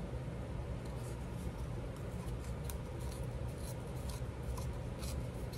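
Scrap paper being worked by hand, a run of short, crisp rasping strokes. A steady low hum sits underneath.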